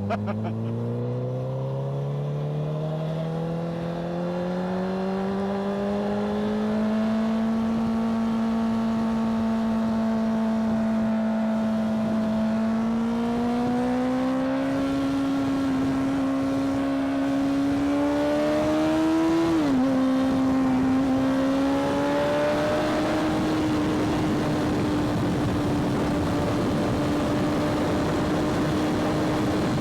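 A motorcycle engine pulls away with its pitch rising steadily, drops once in pitch at a gear change about two-thirds of the way through, and then holds a steady high pitch at cruising speed. Wind rush on the microphone grows as speed builds.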